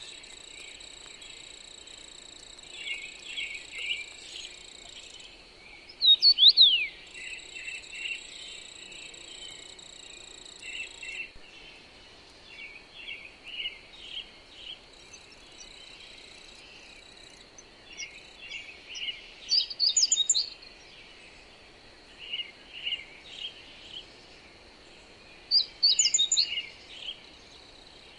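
Songbirds chirping and calling over a steady high insect trill and a soft wind hiss. A loud falling whistle comes about six seconds in, and bright bursts of rapid chirps come about twenty seconds in and again near the end.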